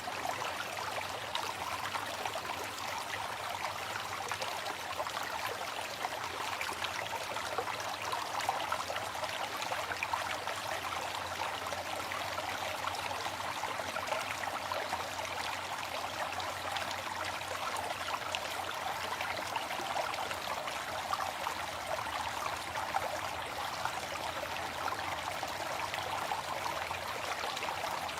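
Waterfall: falling water rushing and splashing in an unbroken, steady hiss, with little deep rumble.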